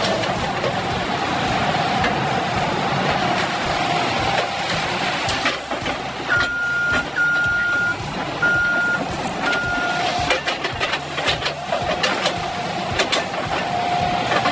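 A heavy machine's diesel engine running under load, with its reversing alarm beeping four times partway through, then a string of sharp knocks and cracks.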